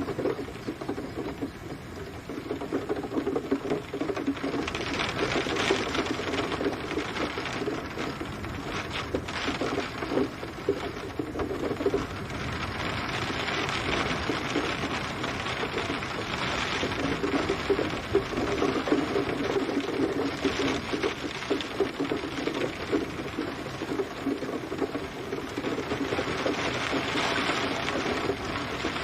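Rain falling steadily and pattering on a surface, a dense hiss of drops that swells and eases every few seconds.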